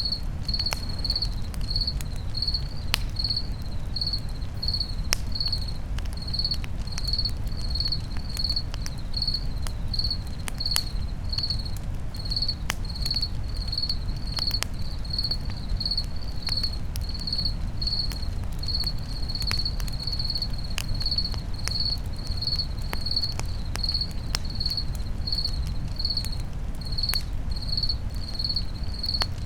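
A cricket chirping steadily on one high note, about two chirps a second, over a campfire with scattered sharp crackles and snaps and a low rumble of burning.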